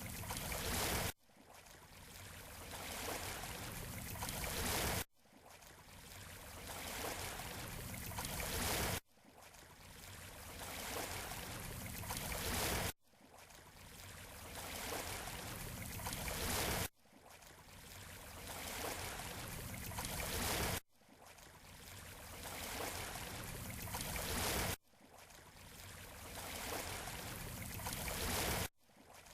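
Waves washing on a beach shore, a rushing noise that swells over about four seconds and then cuts off suddenly, over and over in an identical cycle, like a short recording looped.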